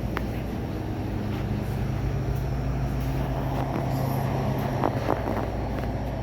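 A vehicle engine running steadily with a low hum, with a few light clicks about five seconds in.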